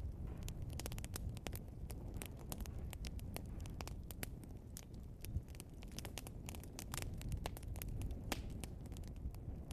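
Burning logs in a wood fire crackling and popping: many sharp, irregular pops, several a second, over a steady low rumble of the flames.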